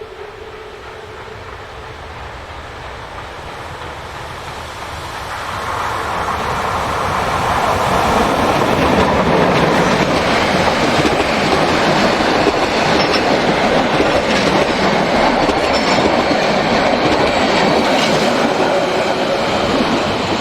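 Train approaching and running past close by: the running noise and wheel clatter build up from about five seconds in and then stay loud.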